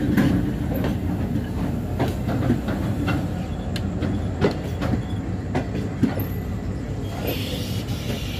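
Pakistan Railways passenger coaches rolling past on departure: a steady rumble of wheels on rail with irregular clicks and clunks as the wheels cross rail joints. A brief hiss comes in near the end.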